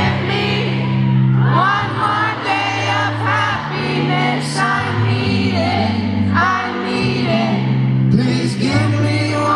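Live pop song: a lead voice sings wavering lines over held low chords that change every second or so.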